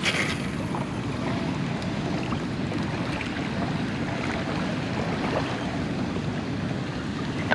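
Steady rushing of water from a flooded dam spillway.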